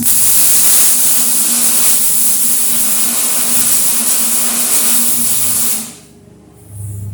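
Arc welding on steel channel: a steady, loud frying hiss of the welding arc laying a bead, which cuts off suddenly about six seconds in.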